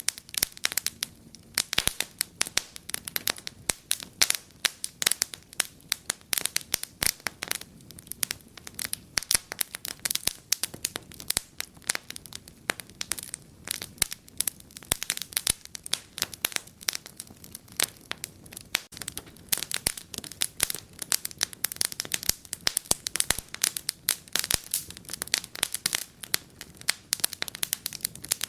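Wood fire burning in a fireplace: a dense, irregular crackle of sharp pops and snaps over a soft low hiss.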